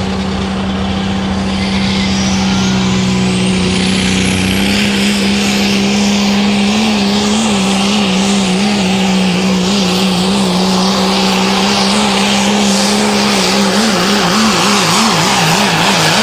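Dodge diesel pulling truck at full throttle dragging the sled down the track, a high turbo whistle climbing in pitch over the first few seconds. The engine note wavers toward the end as the truck bounces, then drops away suddenly as the run ends.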